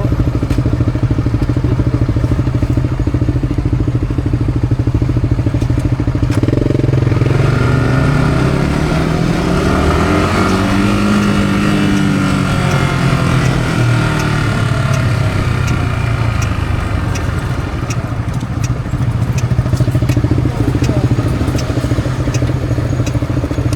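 Yamaha R-15's single-cylinder engine running through its stock exhaust, heard from the rider's position. It holds a steady note, then about a third of the way in it climbs in pitch and falls back, settling to a steady note again for the last third.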